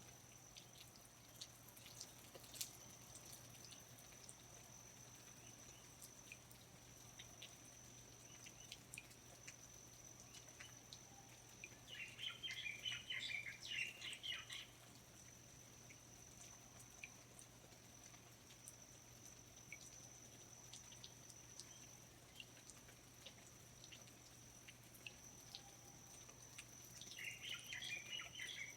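Faint rainforest ambience: scattered water drips under a steady high thin tone, with a short burst of rapid bird chirping about twelve seconds in and again near the end.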